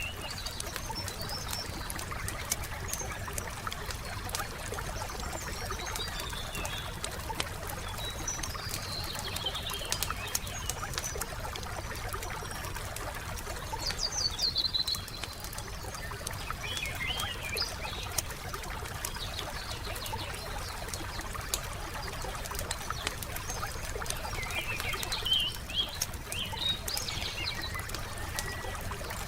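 Wood fire crackling with many small pops over a steady hiss, while songbirds sing short chirping phrases now and then, most clearly about halfway through and again near the end.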